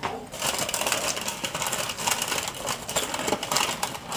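A person chewing food close to the microphone, with a dense, irregular crackle of wet clicks and crunches.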